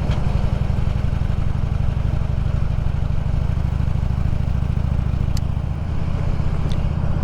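Harley-Davidson Road King's V-twin engine running steadily under way, with wind and road noise. The engine note drops a little near the end.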